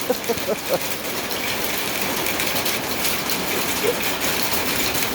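Rain falling steadily, an even hiss of drops hitting the ground and surfaces.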